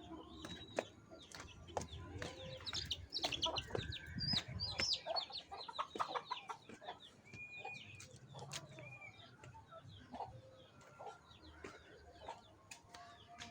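Chickens clucking and calling in a farmyard, a busy run of short calls about three to five seconds in, then thinning out.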